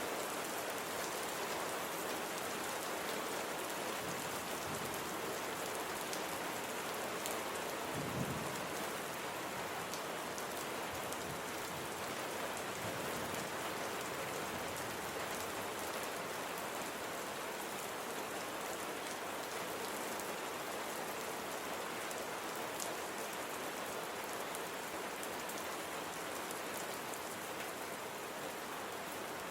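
Steady rain falling on surfaces, an even hiss with scattered individual drop ticks. A brief low rumble swells about eight seconds in.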